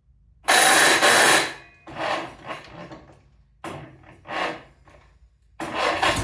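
Farmall Cub Lo-Boy's four-cylinder flathead engine being cranked by the starter in several rough bursts, the first and longest about a second long. Near the end the engine catches and begins to run.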